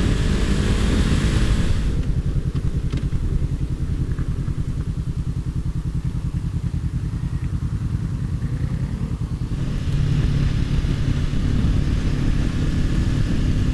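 Honda CBR500R's parallel-twin engine heard from on the bike. It is at high revs with a rush of wind for the first couple of seconds, then drops to a low, pulsing note for several seconds as it slows, and pulls harder again with a steadier tone for the last few seconds.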